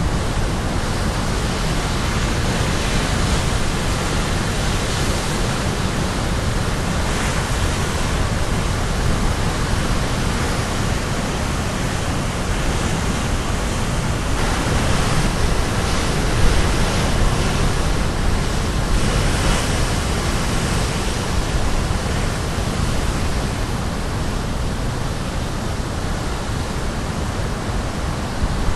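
Caribbean Sea surf breaking and washing on the shore as a continuous rush of noise, swelling gently now and then.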